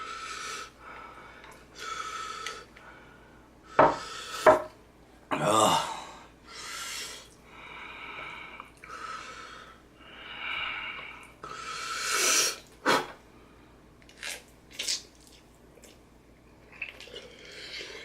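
A person breathing hard, drawing sharp hissing breaths in and out through the mouth over and over against the burn of very spicy noodles. A couple of sharp clicks about four seconds in, and fainter short sounds near the end.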